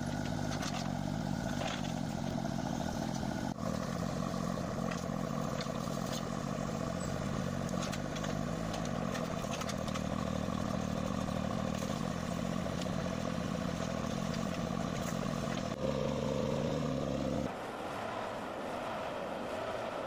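Engine of a heavy forestry machine running steadily, with clattering and scraping over it. The sound changes abruptly about three and a half seconds in, and again near the end, when the deep engine note largely drops away.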